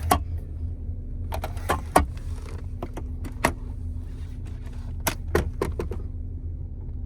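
1968 Lincoln's V8 idling with a steady low rumble inside the car, while interior switches are clicked about ten times, singly and in quick pairs.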